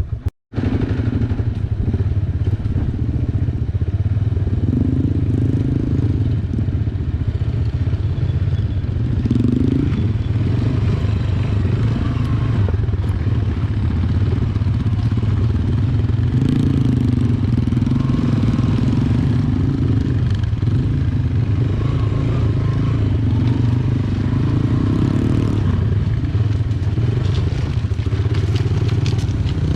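Yamaha YBR125G's single-cylinder engine running steadily while the motorcycle is ridden, with one split-second dropout just after the start.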